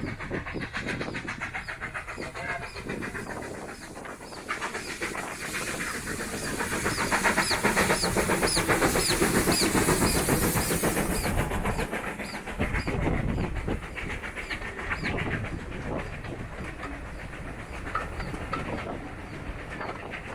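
Steam train passing: the locomotive's exhaust chuffs and the carriages' wheels clattering over the rail joints, growing louder to a peak about halfway through and then fading.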